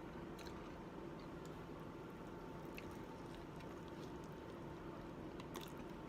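Faint chewing and mouth sounds of a person eating a bacon cheddar burger, with a few soft clicks over a steady background hum.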